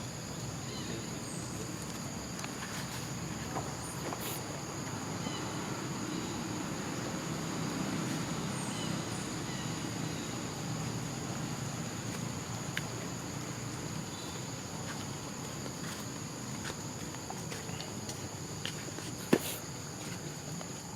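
Steady high insect chirring over low background noise, with one sharp click near the end.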